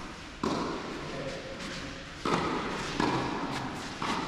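Tennis balls being struck and bouncing in a large indoor tennis hall: four sharp knocks, each trailing a long echo.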